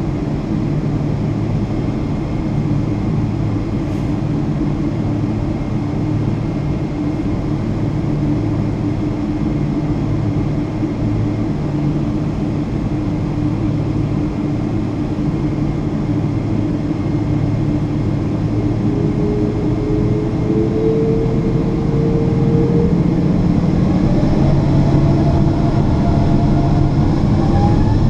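Boeing 777-200 jet engines running at low power, a steady low rumble with a held hum. About two-thirds of the way in, a whine starts climbing in pitch and the sound gets louder as the engines spool up for takeoff.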